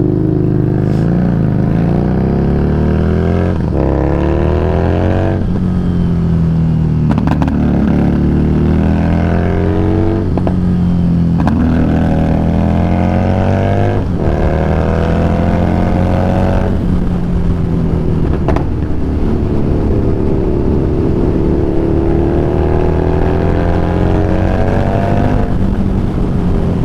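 Harley-Davidson Street Rod 750 V-twin running under way. Its pitch climbs repeatedly and breaks off sharply several times, as the bike accelerates and shifts gears.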